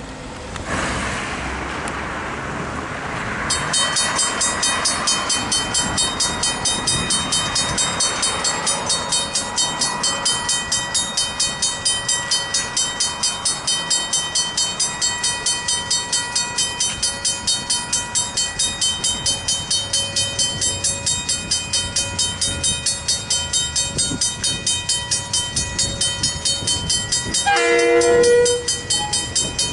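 Griswold mechanical level-crossing bells ringing a few seconds in, a fast, steady clanging that warns of an approaching train. A train horn sounds briefly near the end.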